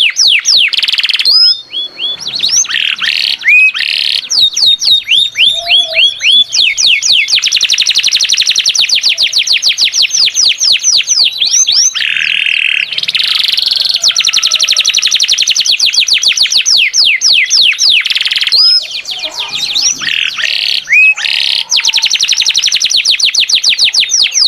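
Domestic canary in full song: long, fast trills of rapidly repeated down-sweeping notes, broken by brief pauses and changes of phrase.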